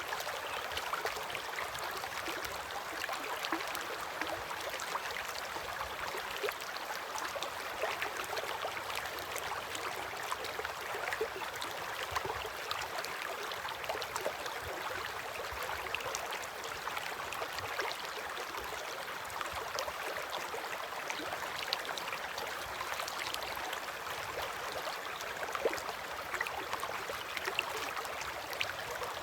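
River water flowing steadily past a bank, a continuous rush with many small splashes and gurgles throughout.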